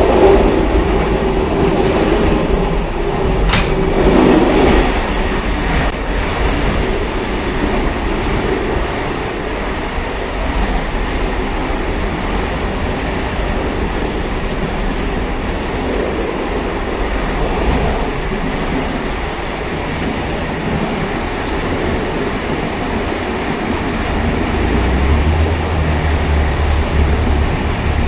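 Railcar running along the track: a steady rumble and rattle of wheels on the rails, with one sharp click about three and a half seconds in and a deeper low hum coming in near the end.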